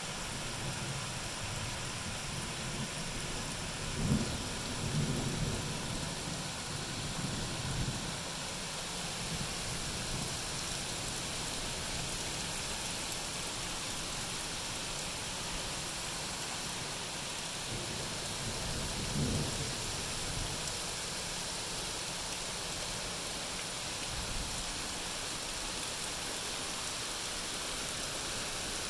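Steady hiss of rain falling, with a few short low rumbles about four to eight seconds in and again around nineteen seconds.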